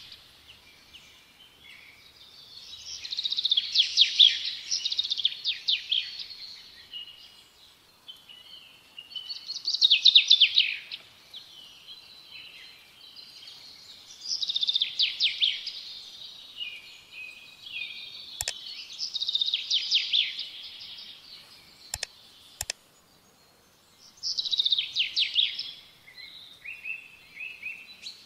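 A songbird singing in phrases of rapid trills and warbles, each a second or few long, repeating after short pauses. Three sharp clicks come about two-thirds of the way through.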